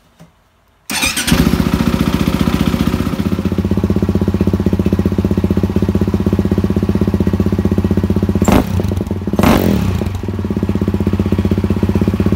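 KTM 450cc single-cylinder four-stroke dirt bike engine in a go-kart chassis, firing up about a second in and then idling through its exhaust with a quick, even beat, with two short blips of the throttle near the end.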